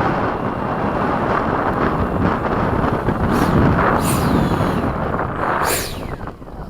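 Strong wind buffeting the microphone, with the high whine of an FMS 70 mm electric ducted-fan F/A-18 passing, falling sharply in pitch a few times near the end.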